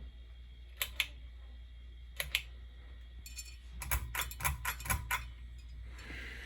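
Metallic clicks of a ceiling fan's pull-chain switch being worked: two pairs of clicks, then a quick run of clicks with the chain rattling, over a steady low hum.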